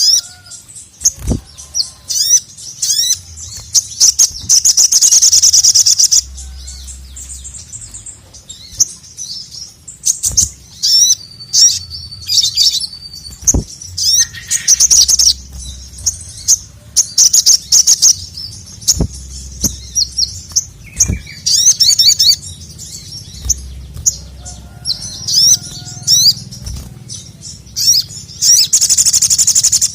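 A sogok ontong (sogon) bird singing in full voice: rapid runs of high, sharp chirps in repeated loud bursts, the longest about four seconds in and again near the end. A few sharp taps sound among the song.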